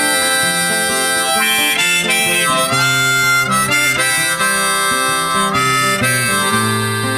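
Instrumental break in background music: a harmonica playing a melody over acoustic guitar accompaniment.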